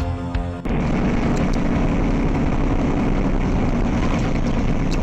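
A short bit of background music cuts off abruptly about half a second in. Loud, steady vehicle noise follows, heavy in the low end, as recorded on board a vehicle in motion.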